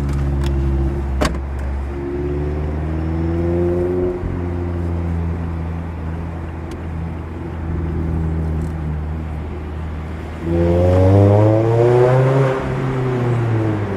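Mazda MX-5 Miata four-cylinder engine running through a Goodwin Racing RoadsterSport race exhaust while driving, with a couple of sharp clicks near the start. About ten seconds in, the throttle opens and the exhaust note gets louder and rises in pitch, then drops back near the end.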